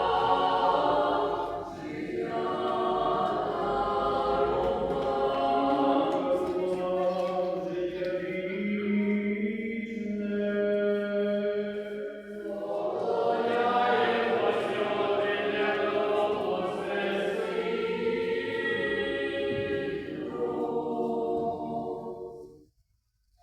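Ukrainian church choir singing a liturgical chant a cappella, several voices in harmony on long held notes. The singing stops about a second before the end.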